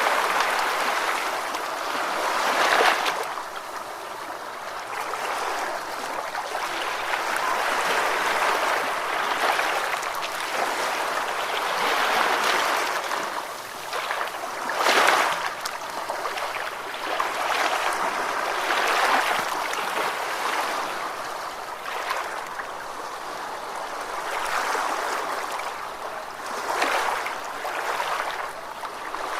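Ocean waves washing in a continuous rush that swells and ebbs every few seconds, with stronger surges about three seconds and fifteen seconds in.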